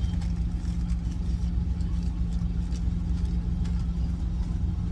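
Semi-truck's diesel engine idling with a steady low drone, with a few faint light clicks over it.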